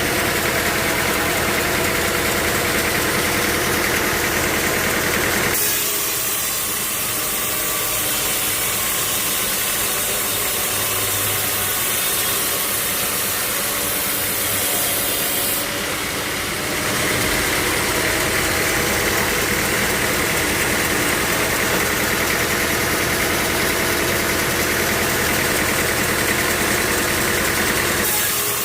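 Sawmill machinery with engines running, a dense steady mechanical noise that changes abruptly about five seconds in, around the middle and near the end.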